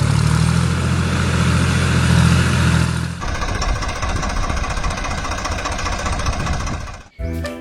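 A heavy diesel engine running with a deep, steady rumble. About three seconds in the sound changes to a noisier clatter with less low rumble, and it cuts off suddenly near the end.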